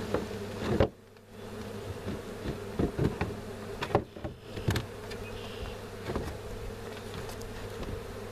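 A swarm of honey bees buzzing steadily, with a few sharp knocks and clicks about a second in and again around three to five seconds in.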